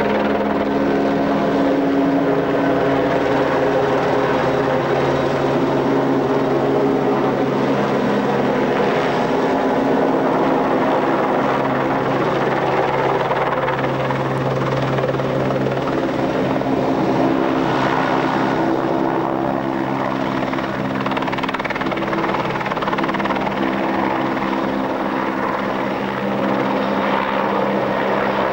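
Helicopter running with a steady, loud drone that shifts slightly in pitch over time, without a break.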